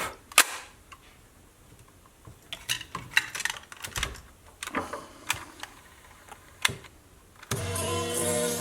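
Plastic clicks and knocks of a cassette being swapped in a Sony WM-B18 Walkman: the cassette door opening and shutting and the buttons being pressed. Near the end, music from the tape starts playing back.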